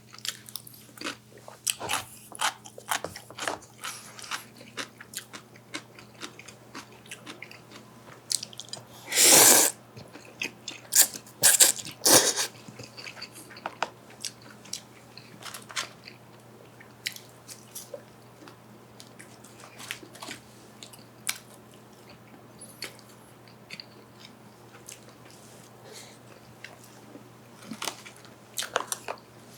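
Close-miked mukbang eating: chewing and crunching mouth sounds with many small clicks. One loud burst comes about nine seconds in and a few sharp loud ones around eleven to twelve seconds, then the chewing goes on more quietly.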